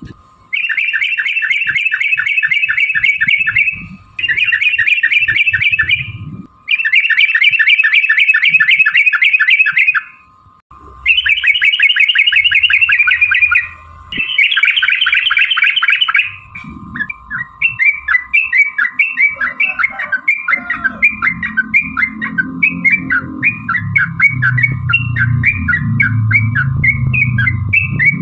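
Yellow-vented bulbul (trucukan) giving long rapid rattling song phrases, five bursts of a few seconds each. About 17 seconds in, these give way to a run of short repeated chirps, about three a second. A steady faint high hum runs underneath.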